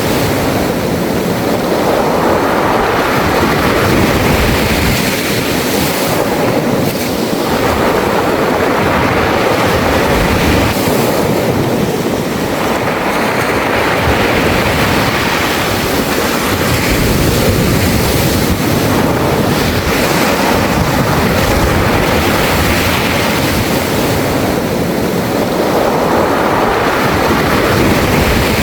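Sea waves washing over a beach of round pebbles, the water and rolling stones making a continuous hiss and rattle that surges and eases every few seconds.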